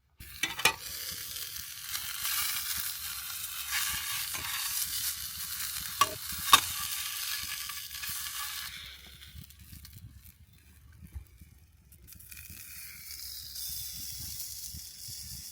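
Food sizzling in a pan, with a few sharp clicks. The sizzle drops away about nine seconds in and comes back more faintly near the end.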